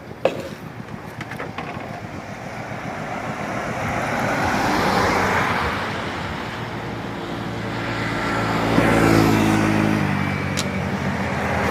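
An engine running steadily, its noise swelling and easing twice, with a single sharp click just after the start.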